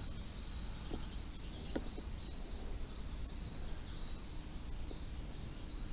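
Quiet lakeside outdoor ambience: a bird chirping a quick run of short, high notes over a low, steady rumble, with a couple of faint clicks in the first two seconds.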